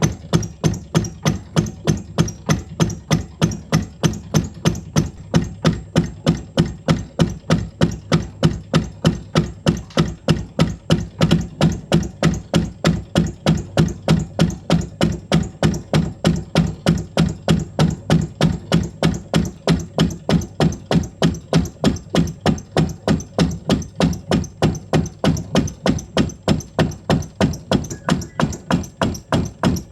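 Cricket bat knocking machine striking the face of a Kashmiri willow bat in a steady rhythm of about three dull knocks a second. This is knocking-in, which hardens the willow face before the bat is used.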